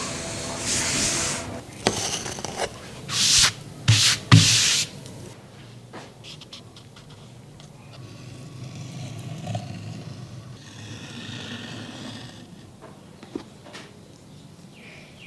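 Hand work on leather: rubbing and scraping strokes, several loud short ones in the first five seconds, then softer, longer rubbing about halfway through.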